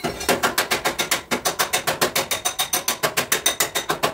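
Rapid, evenly spaced hammer taps on car body sheet metal, about eight strikes a second, each with a short metallic ring.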